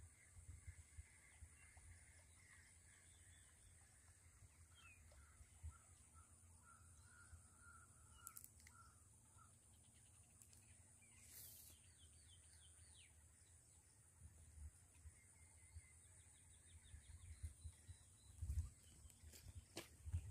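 Faint outdoor ambience: a bird calling a run of about a dozen quick repeated notes midway, over a steady high-pitched hum and low wind rumble on the microphone. A few dull thumps come near the end.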